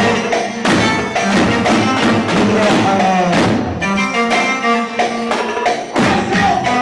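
Live Arabic party band playing an instrumental passage: a melody instrument over a steady beat of drums and percussion.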